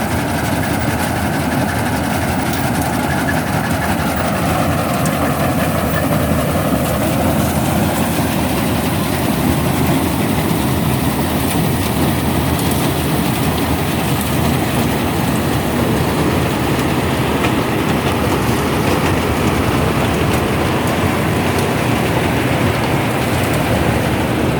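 Rice harvesting machine running steadily and loudly, its engine and threshing works making a continuous mechanical din.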